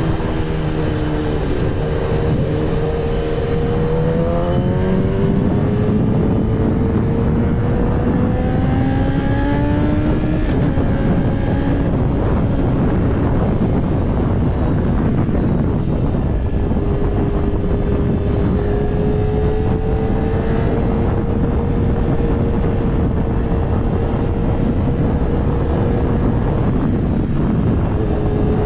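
Kawasaki ZX-10R sport bike's inline-four engine running under way, its pitch rising between about four and ten seconds in, then holding steady for the rest, over a loud steady rushing noise.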